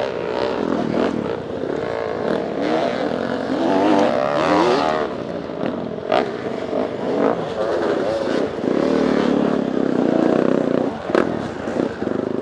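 Off-road dirt bike engine running under load, its pitch rising and falling repeatedly as the throttle is worked over rough trail, with sharp knocks from the bike about halfway through and near the end.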